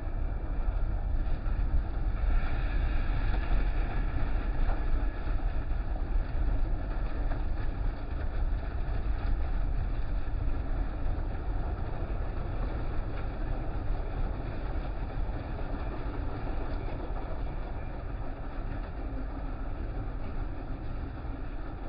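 Car wash running: a steady rushing of water spray and machinery over a low rumble, a little louder a few seconds in and easing off slightly toward the end.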